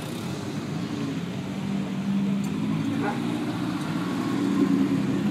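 Race car engines idling in a queue, a steady low hum that grows a little louder about two seconds in.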